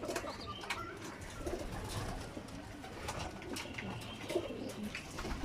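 Racing pigeons cooing, several birds calling in short, scattered coos, with a few light clicks among them.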